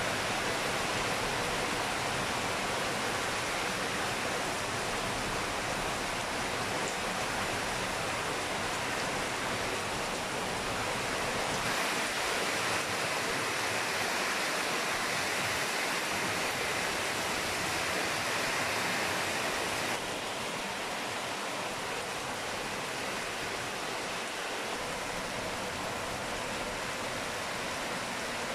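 Steady rain falling, an even hiss. It grows a little louder about twelve seconds in and drops back slightly about twenty seconds in.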